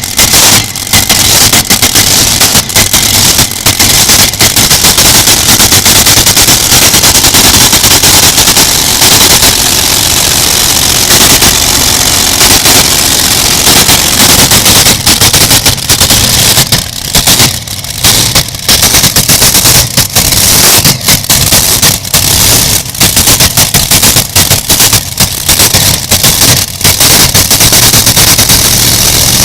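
Modified pulling tractor's engine running flat out, a harsh crackling racket loud enough to overload the recording, with short dips and sharp cracks through the second half.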